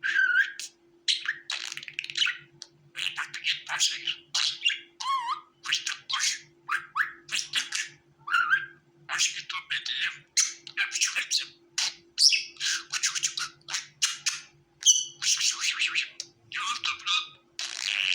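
Budgerigar chattering: a rapid, continuous run of short chirps, squawks and warbles, with a faint steady hum underneath.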